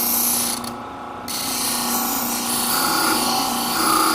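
Sharpening machine's motor running with a steady hum while a ceramic shear blade is ground on its wet diamond abrasive disc to cut a new edge. The high grinding hiss drops out briefly about a second in, then resumes.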